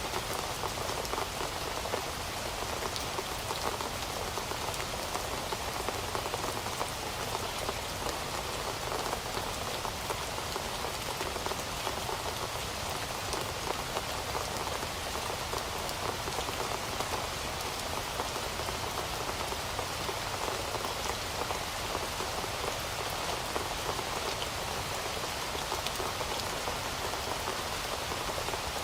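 Heavy rain falling steadily, a dense even patter of drops on a surface with no change in strength.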